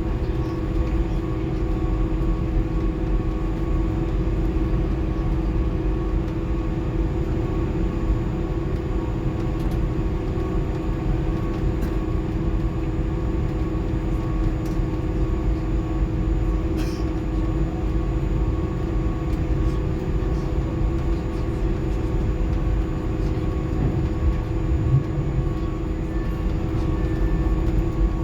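Airbus A310 cabin noise while taxiing after landing: a steady low rumble with the engines' even whine at idle.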